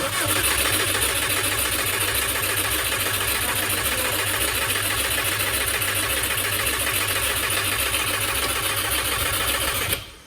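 Subaru WRX's swapped-in JDM flat-four engine being cranked over by the starter for about ten seconds without firing, with an even pulsing beat, then cut off. It doesn't catch because a blown fuel pump relay fuse leaves it without fuel.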